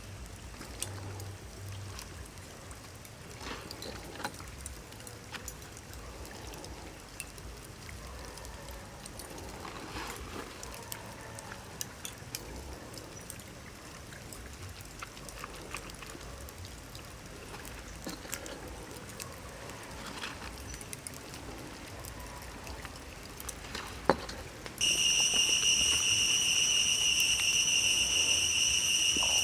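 Soft trickling and pouring of water with scattered small clicks and knocks. About 25 seconds in, a loud, steady insect chirring, like crickets, starts abruptly and drowns it out.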